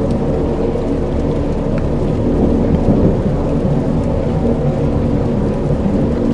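Dark ambient soundscape: a deep rumbling drone made of several sustained low tones, under a steady rain-like hiss with a few faint ticks.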